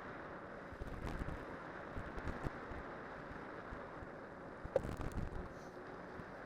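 Cyclocross bike with spiked tyres riding downhill over snow: a steady rushing of wind and tyre noise, with scattered knocks and rattles from the bike over bumps and a sharper clink about five seconds in.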